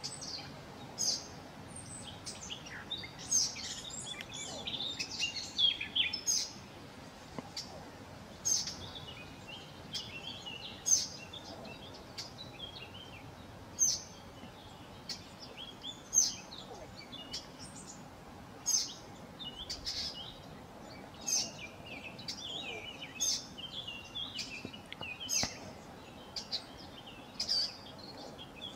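Small songbirds calling: sharp, clicking calls repeated every second or two, with twittering song phrases between them.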